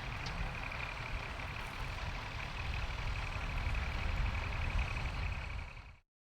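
Tractor engine running steadily, with a low pulsing beat; the sound cuts off abruptly about six seconds in.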